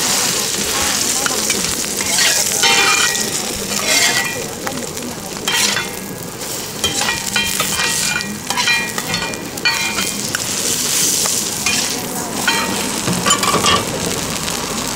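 A Thai-style omelet deep-frying in hot oil in a wok, with a continuous sizzle. A metal spatula scrapes and clinks against the wok again and again as the omelet is pushed and folded.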